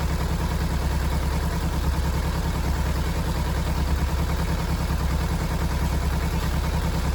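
Kawasaki Z250 parallel-twin engine idling steadily through its temporarily patched exhaust, which the owner says now sounds much like the stock exhaust, with the air leak at the damaged silencer sealed.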